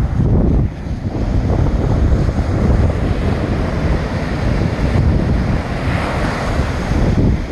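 Ocean waves breaking and washing against a jetty, with strong wind buffeting the microphone in a low rumble. A wave surges up loudest about six seconds in.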